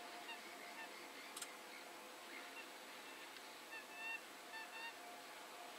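Distant birds calling: short, pitched calls, two near the start and a quick cluster about four seconds in, over a faint steady hiss of outdoor air.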